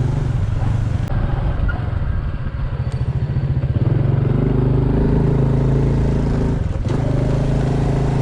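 Honda Super Cub's single-cylinder four-stroke engine running as the bike rides off and picks up speed. The engine note rises about four seconds in and briefly drops about seven seconds in.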